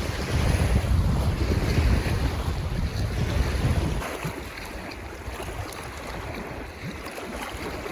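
Wind buffeting the microphone: a heavy low rumble that eases about four seconds in, leaving a steady rushing hiss.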